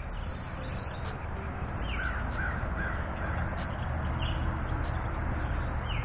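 A bird calling outdoors: three short calls in quick succession about two seconds in, with a few brief falling chirps scattered through, over a steady low background rush.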